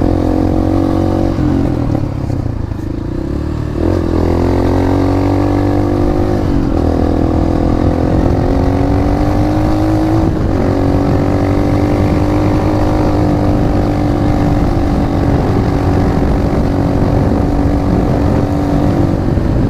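Motorcycle engine running while riding, its note climbing slowly and dipping three times, as at gear changes.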